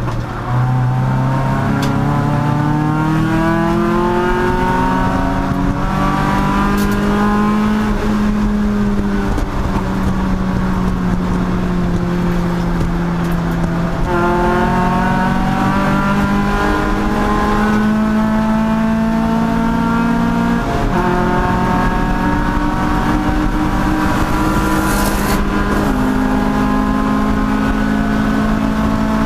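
Race car engine running hard, its pitch climbing under acceleration and stepping down or up several times as the driver changes gear.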